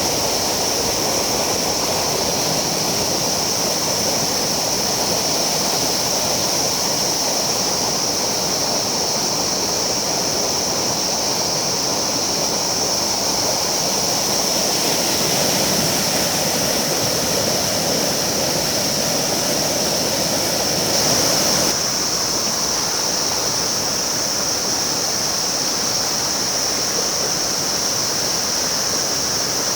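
River water rushing steadily over stones, with a steady high-pitched tone running over it.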